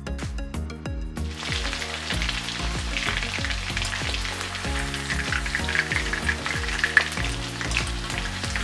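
Cornflour-coated chicken thigh pieces deep-frying in hot oil in a wok: a steady sizzle that comes up about a second in, over background music.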